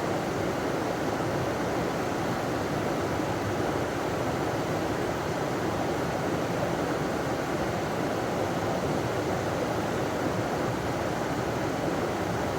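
River water running over a small waterfall: a steady, unbroken rush.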